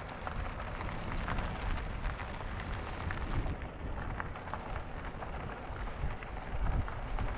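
E-bike tyres crunching and crackling over a loose gravel trail, with wind rumbling on the microphone and gusting harder near the end.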